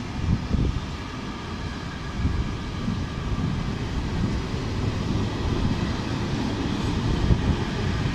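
Freight train of fuel tank wagons rolling past, their wheels rumbling and clattering on the rails with irregular thumps, growing slightly louder near the end.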